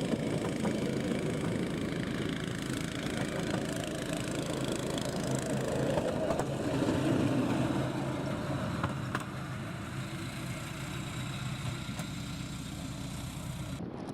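Small diesel engine of a narrow-gauge rail wagon running steadily.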